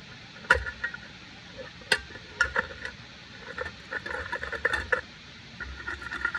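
Metal cookware clinking and clattering: a few sharp knocks, then runs of rattling with a ringing tone, over a steady hiss.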